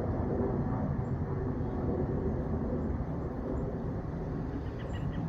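Airplane passing overhead, a steady low rumble.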